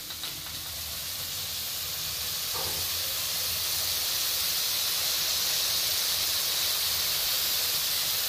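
Onion-tomato masala frying in mustard oil in a kadhai on low heat, a steady even sizzle that grows a little louder over the first few seconds. It is the slow bhuna stage, where the tomato breaks down into the spices.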